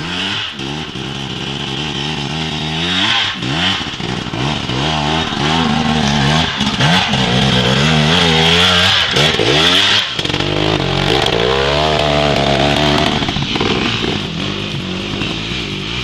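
Dirt bike engine revving up and down over and over, its pitch rising and falling with the throttle, as in slow-speed clutch and throttle work.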